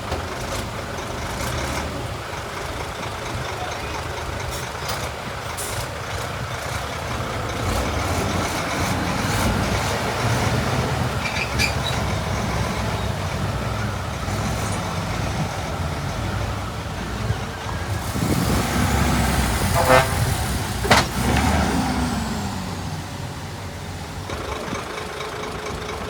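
Heavy diesel earthmoving machinery running steadily. Most of the noise is a low engine rumble that swells about eight seconds in. Two sharp bangs come about twenty and twenty-one seconds in, during a louder stretch.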